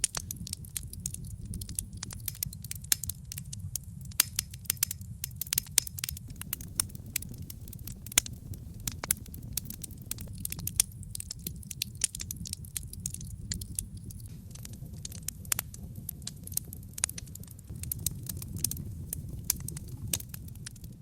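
Wood logs burning in a fireplace: constant irregular crackling with frequent sharp pops over a steady low rumble of the flames.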